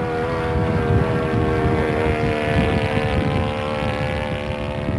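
90-size four-stroke model engine of a radio-control low-wing Piper Cherokee running steadily at high throttle in flight, a pitched drone with wind buffeting the microphone.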